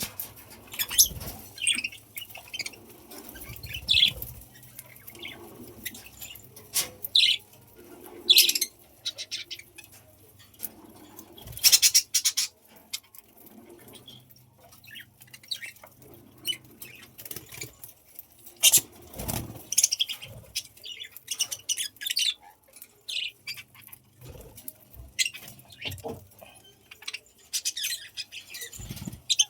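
Budgerigars chirping in short, irregular calls, with scattered clicks and a few light thumps.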